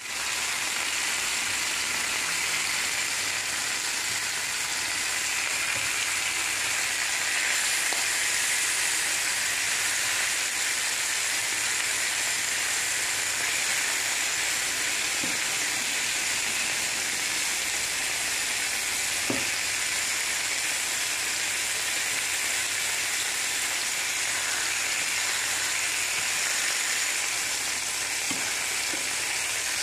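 Sausage patties sizzling steadily as they fry in a nonstick frying pan, with a few faint knocks as a plastic slotted spatula touches the pan.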